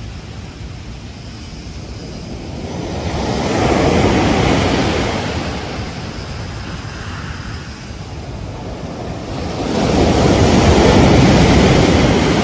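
Ocean waves breaking on a beach: two waves swell and wash in, the first about four seconds in and a louder one near the end, with the hiss of receding surf between, and some wind on the microphone.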